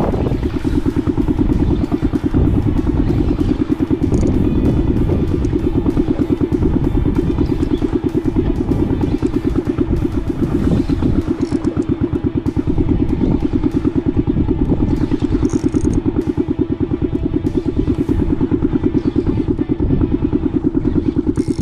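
Fishing boat's engine running steadily with an even, rapid throb.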